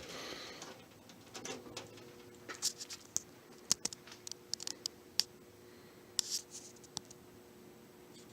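Kmart 223 box fan's Samsung motor starting from cold: a click, then a steady low hum sets in about a second and a half in, with scattered irregular ticks and clicks over it. The motor is slow to come up to speed, slower than usual.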